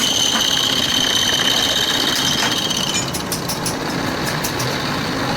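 Mechanical workshop noise: a steady high whine for about three seconds, then a quick run of sharp clicks, over a steady rumble.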